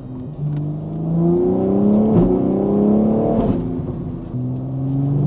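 BMW S58 twin-turbo inline-six breathing through a DCE Parts equal-length midpipe and catless downpipes, pulling under acceleration with the pitch rising, two sharp cracks in the middle, then a drop about four seconds in and a fresh rise. The tone is deep, with the metallic rasp filtered out.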